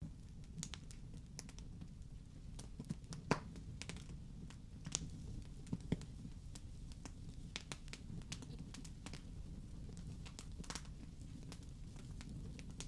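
Wood fire burning in a fireplace: irregular crackles and pops over a low steady rumble, with a few louder pops a few seconds in.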